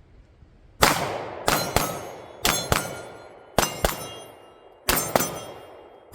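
Pistol fired in a double-tap drill across steel targets: one shot about a second in, then four quick pairs of shots about a quarter second apart, one pair roughly every second. The steel plates ring after the hits.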